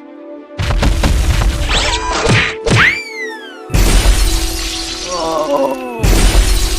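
Background music overlaid with action sound effects: heavy crashing, shattering hits, with quick falling whistle-like zaps about two and three seconds in.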